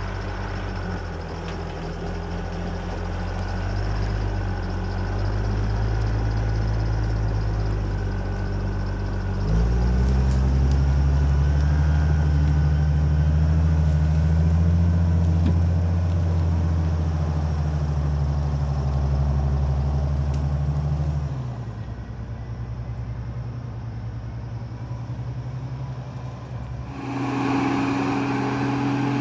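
A heavy logging machine's diesel engine running steadily, revving up about ten seconds in, settling back about twenty-one seconds in, and changing to a noisier, higher hum near the end.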